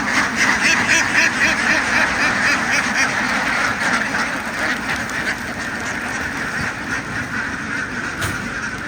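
A large flock of domestic ducks quacking together in a dense, continuous din of overlapping calls, a little louder in the first half.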